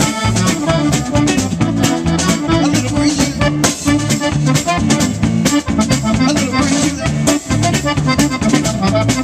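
Live band playing an instrumental passage of a song with a steady beat and bass line.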